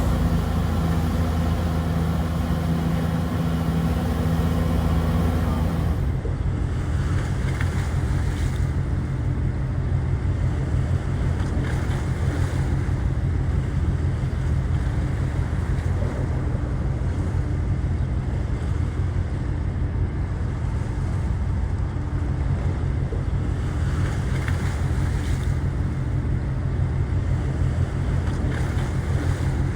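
A boat's engine drones steadily, a low hum with wind and water noise. About six seconds in the sound changes suddenly and the high hiss drops away.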